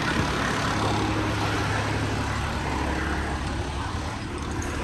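Engine of a truck-mounted crane running steadily, a low even hum.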